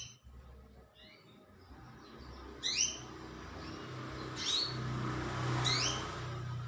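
Canary giving short, sharply rising chirp calls, about four or five spaced a second or two apart, over a steady low hum that grows louder in the second half.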